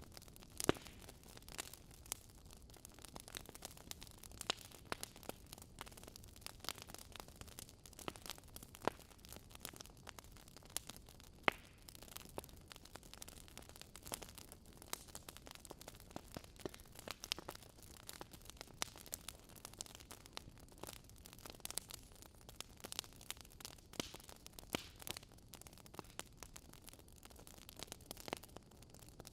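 Fire crackling: irregular sharp pops and snaps, several a second and now and then a louder one, over a faint steady hiss.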